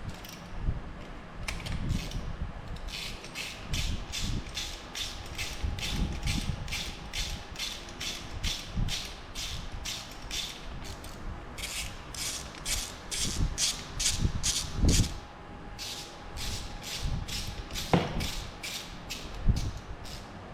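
Ratchet wrench clicking in two long runs of even strokes, about three clicks a second, as spark plugs are wound back into the engine, with a few knocks between the runs.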